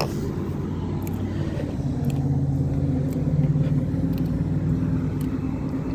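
Steady low hum of a running Carrier 38CKC air-conditioning condensing unit, its compressor and fan, growing louder about two seconds in.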